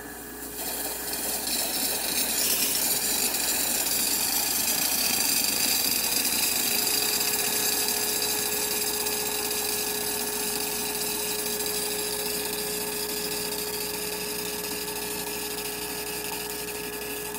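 Rancilio Silvia espresso machine dispensing hot water: its vibratory pump buzzing steadily under a broad hiss of hot water and steam from the wand, starting about half a second in. The water is being drawn to cool the boiler down after steaming.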